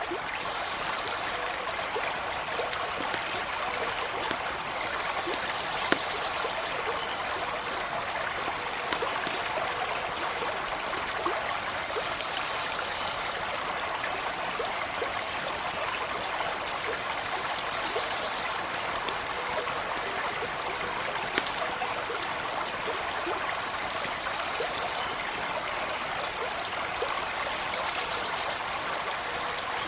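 Steady rushing of a small stream running over stones, with sharp crackles and pops of a campfire scattered throughout; a few louder pops come about 6 seconds in, around 9 seconds and near 21 seconds.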